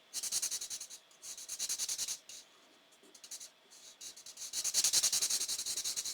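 Stampin' Blends alcohol marker rubbed across cardstock in quick back-and-forth strokes, colouring in an image. The scratchy strokes come in three spells, the longest near the end.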